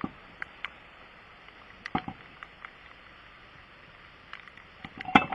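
Steady rain hiss with a few scattered knocks and clicks from roadside tire work, the loudest knock about five seconds in.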